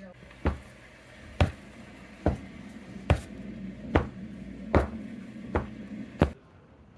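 Footsteps climbing stairs: eight even thumps, about one every 0.8 seconds, stopping a little after six seconds in.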